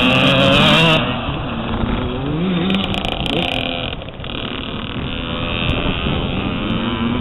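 Motocross bike engines revving, their pitch rising and falling repeatedly.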